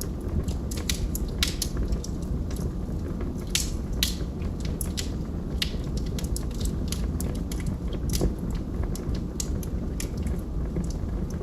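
Log fire crackling: irregular sharp pops and snaps, several a second, over a steady low rumble of burning.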